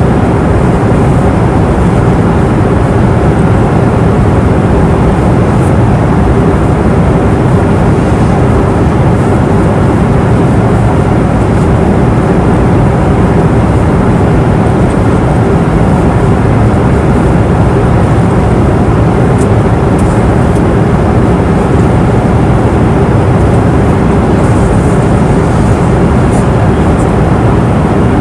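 Passenger airplane cabin noise in flight: a steady low rush of engines and airflow with a constant hum running through it, and a few faint ticks.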